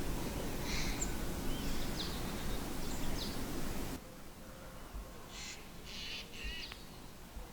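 Small birds chirping in short calls over a low wind rumble. About halfway through the sound cuts to a quieter scene with a few more chirps.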